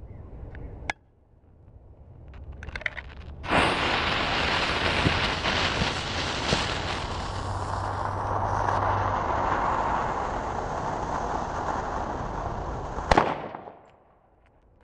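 M-150 firecracker going off as a fizzle: a few short crackles, then a loud steady hiss for about ten seconds, ending in one sharp pop near the end. It did not blow apart the ball it was taped to, a sign it burned out rather than exploding fully.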